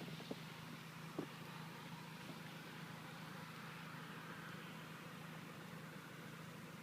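Faint, steady hum of a vehicle engine idling, under a soft even rush, with a couple of light knocks in the first second or so.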